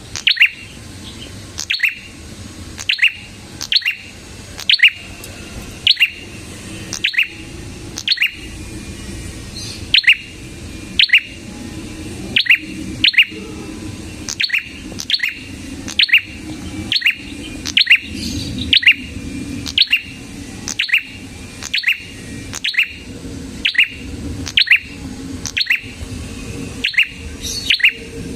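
Prenjak kepala merah (red-headed prenjak) singing vigorously: sharp, quick down-slurred chirps repeated about once a second, often in close pairs.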